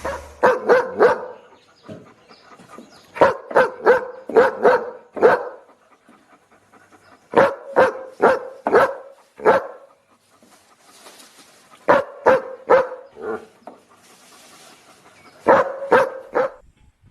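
A dog barking in rapid volleys of about four to six barks each, five volleys with pauses of a second or two between them.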